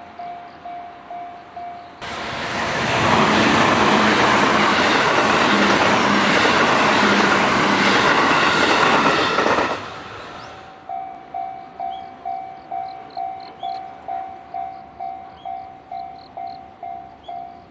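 Japanese railway level crossing warning bell ringing in a steady rhythm of about two and a half strikes a second. About two seconds in, a JR West electric commuter train passes with a loud rush of wheels on rail lasting about eight seconds and drowning out the bell. The bell is heard again once the train has cleared.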